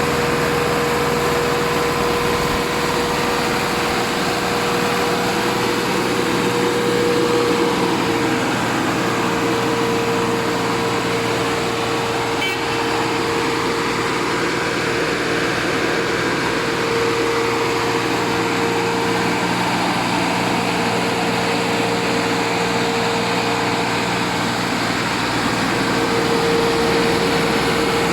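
Tractor diesel engine running steadily, with a held hum.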